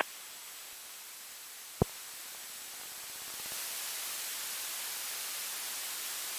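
Aircraft radio hiss on the intercom feed between air traffic control transmissions, with a single sharp click about two seconds in. The hiss grows louder about three and a half seconds in and then holds steady.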